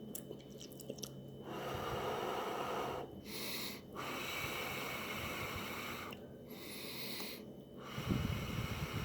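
A person breathing heavily while eating: long breaths of a second or two each, with short gaps between them, and some chewing. A low thump comes near the end.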